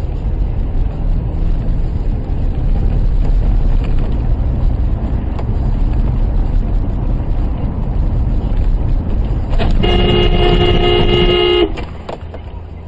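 Steady low vehicle and road rumble, with a car horn sounding for about two seconds near the end; then the rumble drops off sharply.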